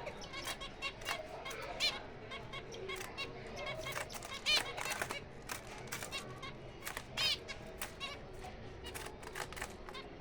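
Small aviary finches chirping and calling: many short, overlapping calls, with a few louder calls about four and a half and seven seconds in.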